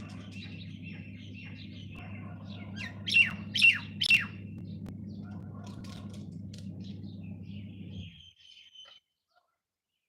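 Small birds chirping and tweeting, with three loud, sharp calls falling steeply in pitch about three to four seconds in, over a steady low hum. The sound cuts off abruptly about eight seconds in.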